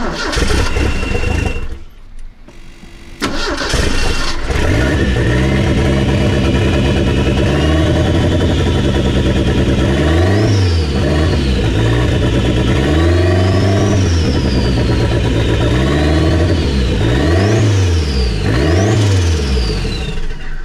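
Ford 2.3-litre turbocharged four-cylinder (1987 Turbo SVO engine) starting, dying after about two seconds, then restarting and running. In the second half it is revved by hand several times, its pitch rising and falling, before it cuts off abruptly at the end. The engine is running rich and smoking, which the owner puts down to a misfitted air-metering part.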